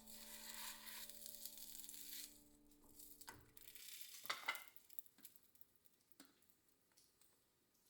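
Food sizzling quietly in a frying pan, fading after about two seconds, then a couple of sharp clicks of utensils or cookware about four seconds in.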